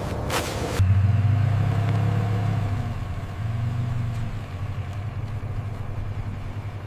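A low, pulsing engine-like rumble, like an idling motor vehicle. It cuts in abruptly about a second in and slowly fades.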